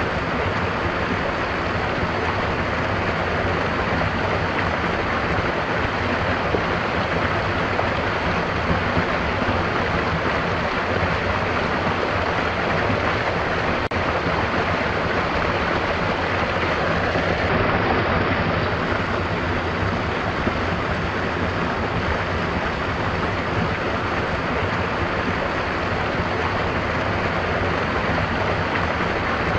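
A stream of water flowing steadily: continuous, even rushing and gurgling.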